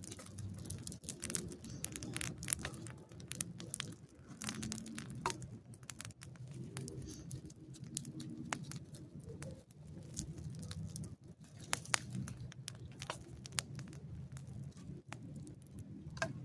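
Campfire crackling with frequent irregular sharp pops, over a low continuous hum.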